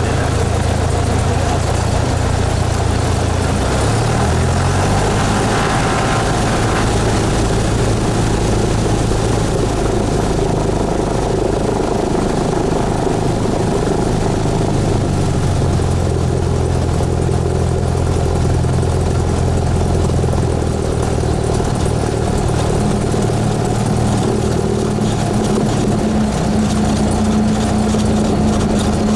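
Cessna 172S's four-cylinder Lycoming IO-360 engine and propeller running at low power, heard from the cabin. The engine note steps to a different pitch about four seconds in and changes again a couple of times later.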